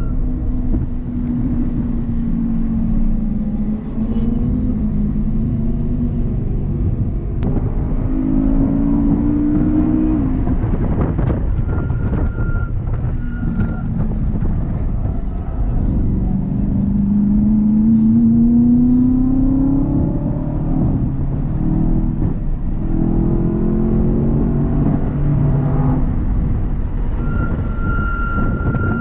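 BMW E92 M3's 4.0-litre V8 heard from inside the cabin, driven hard on a race track: the engine note climbs in pitch under full throttle, drops back at each upshift or lift, and climbs again, over steady road and wind rumble.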